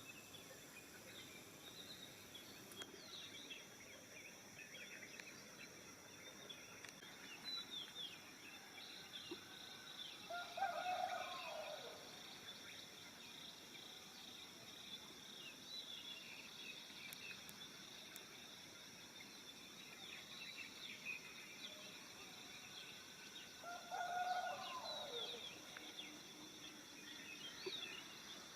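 Rural dawn chorus: small birds chirping on and off over a steady insect drone, with a rooster crowing twice in the distance.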